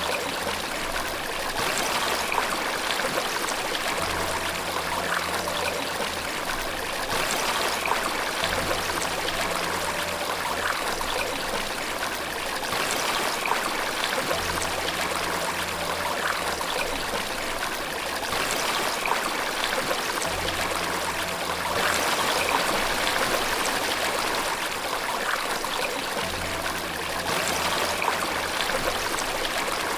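Steady running water, a continuous rushing trickle, with faint low held piano notes underneath that change every couple of seconds.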